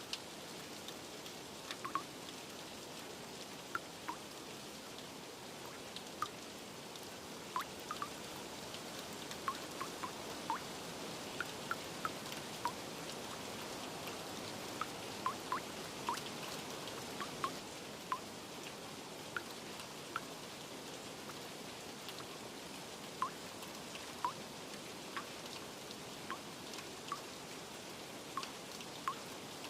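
Steady rain falling, with single water drips landing at irregular intervals, a few every couple of seconds.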